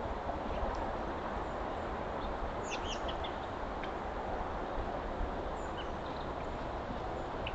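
Steady hiss of outdoor background noise, with a few short, high bird chirps about three seconds in and one more near the end.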